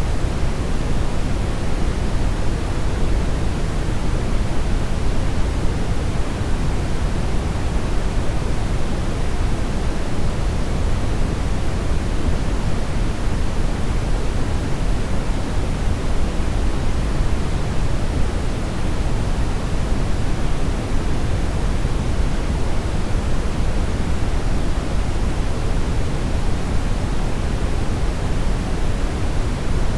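Steady synthetic brown noise: an even, deep rushing hiss, strongest in the bass and dropping off toward the treble, with no change or events.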